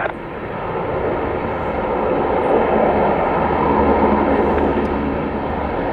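Airliner engine noise, a steady rumble that swells to its loudest about four seconds in and then eases slightly as the aircraft passes.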